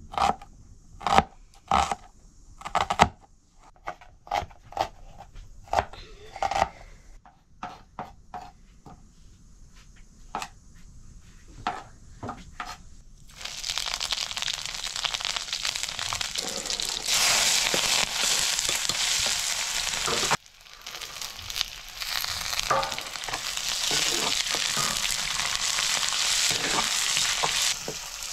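A run of sharp, irregular knocks and taps. About halfway through, a loud steady sizzle sets in as dried buffalo meat (sukuti) fries in hot oil for a curry, cutting out briefly once.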